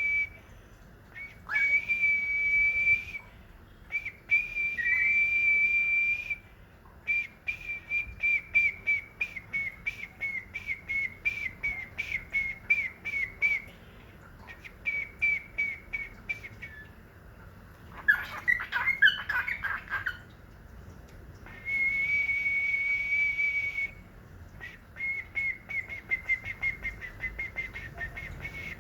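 A pet bird whistling: long steady high whistles held for a second or two, alternating with runs of short repeated whistled notes at about three a second, and a brief harsher burst of chatter about eighteen seconds in.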